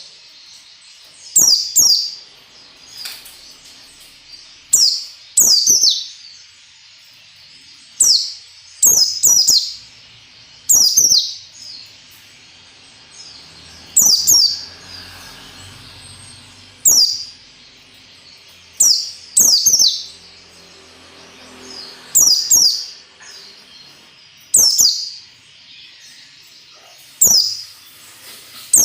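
White-eye (pleci) singing in the wild 'ngalas' style: short, loud, high-pitched phrases of sharp falling notes, the 'nembak' shooting notes, often two in quick succession, repeated every two to three seconds.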